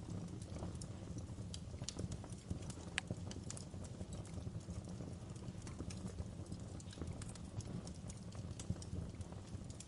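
Wood fire in a fireplace crackling: frequent irregular sharp pops and snaps of burning logs over a steady low rumble of the flames.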